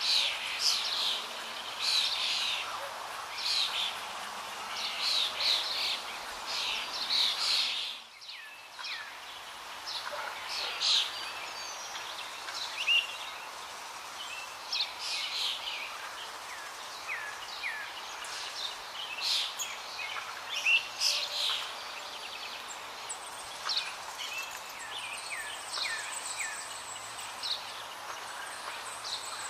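Small birds chirping, many short quick chirps overlapping, with a brief drop-out about eight seconds in.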